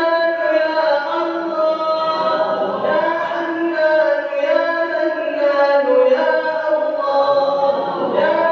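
Drawn-out melodic Arabic chanting from the tahajjud night prayer, the voice holding long notes that slide gently up and down in pitch.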